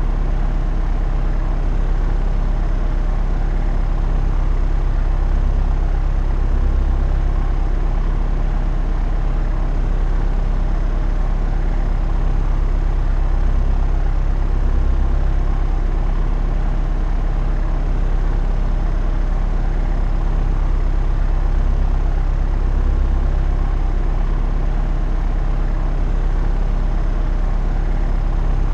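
Propeller aeroplane in level flight: a steady, low drone of engine and propeller, swelling gently about every eight seconds.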